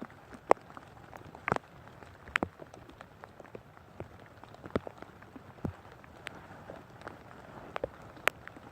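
Rain falling, with a faint steady patter and irregular sharp drops striking close by.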